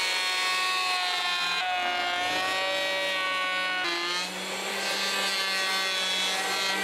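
DEKO 1400 W electric planer running as it planes a board, a steady motor whine whose pitch sags and recovers a couple of times.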